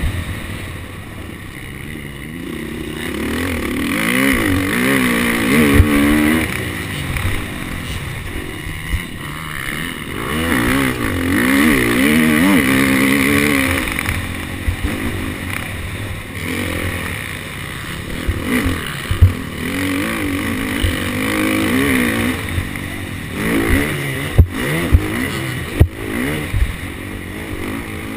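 KTM 250 SX-F motocross bike's four-stroke single-cylinder engine revving up and dropping back again and again as it is ridden hard. Several sharp knocks come through in the last few seconds.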